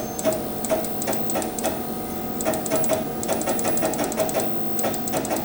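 CNC router's Z-axis stepper motor being jogged up in one-thousandth-inch steps: a run of short, uneven ticks, about three or four a second, over a steady hum from the machine.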